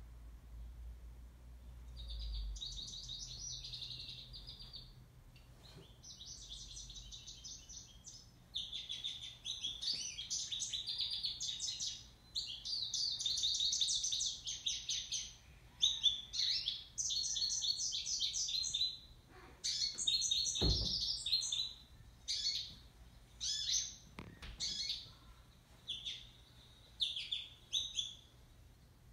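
Bird song: rapid high chirping phrases that start about two seconds in and come in runs of a few seconds with short gaps, breaking into shorter phrases in the second half. A brief soft thump about two-thirds of the way through.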